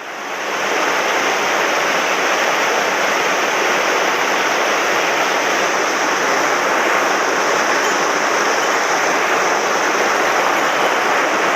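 A mountain stream swollen with floodwater, rushing loudly and steadily. The sound swells up over the first moment, then holds.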